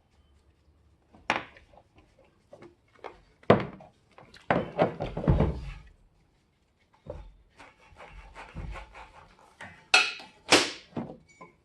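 Hand tools clinking and knocking on metal, with a stretch of scraping and rattling midway, as a car battery's cables are unhooked.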